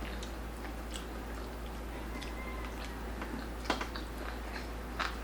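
Close-up chewing and biting of crispy roast pork belly (lechon), with small crackling crunches from the crisp skin and two sharper crunches near the middle and end.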